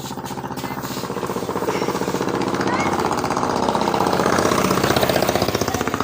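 A motor running with a fast pulsing rattle, growing louder toward the middle and easing near the end.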